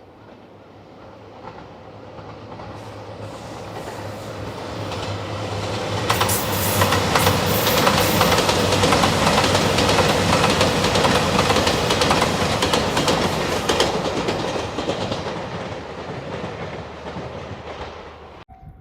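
A train passing at speed over a level crossing. The rail and wheel noise builds over about six seconds, stays loud for about eight seconds with a rapid clatter of wheels over rail joints, then fades away.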